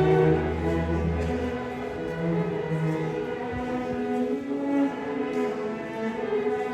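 Live classical music on bowed strings: a slow passage of long held notes over a low bass line.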